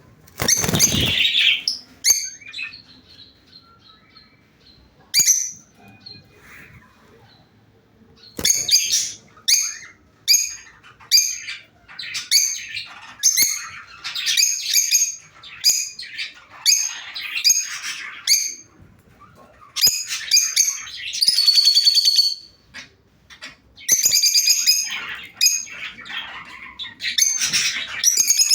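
Fischer's lovebirds chirping: sharp, high chirps repeated about once a second, later breaking into bursts of rapid, dense chatter. A short loud burst of noise comes about half a second in.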